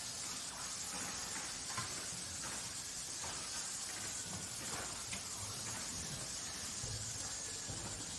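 Factory workshop ambience: a steady hiss over a low rumble, with scattered faint clicks and knocks.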